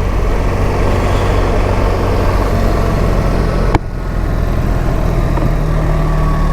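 BMW R 1300 GS's boxer-twin engine running steadily at low revs, under wind and road noise, with a sharp click about four seconds in.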